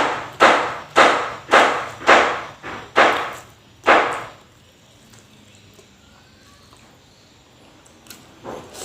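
Loud crunching chews on crispy battered fried shrimp, about two crunches a second, stopping about four seconds in; one more short crunch near the end.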